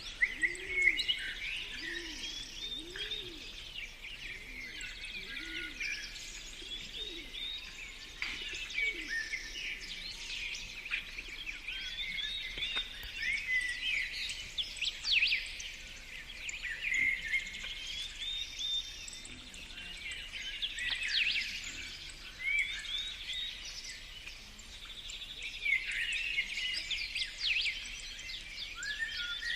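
Several songbirds singing and chirping over one another in a steady dawn-chorus-like mix of high trills and chirps, with a few low repeated notes in the first several seconds.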